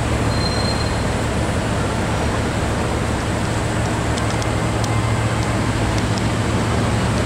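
Bugatti Veyron's quad-turbo W16 engine idling steadily with a low, even hum, under the hiss of city street traffic.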